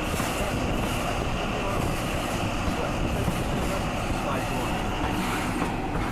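An InterCity 125 High Speed Train running on the rails: a steady, unbroken rumble and rattle of wheels and running gear.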